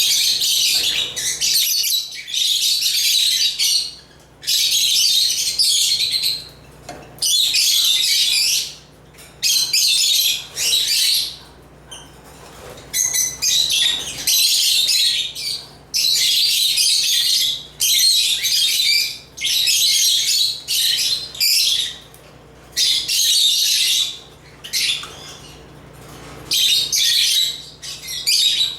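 African lovebirds chattering: dense bouts of shrill, high chirps and squeaks a second or two long, broken by short pauses.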